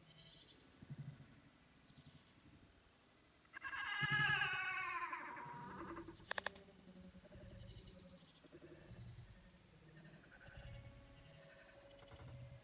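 A cat's single drawn-out meow about four seconds in, falling in pitch, followed by a sharp click. Short faint hissy sounds recur about once a second.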